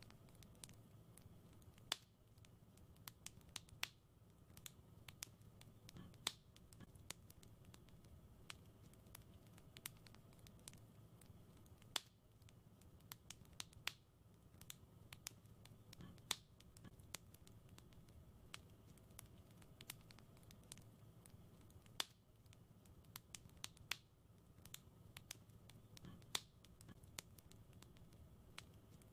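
Wood fire in a fireplace crackling: frequent sharp snaps and pops at irregular intervals over a soft, low rumble of the flames.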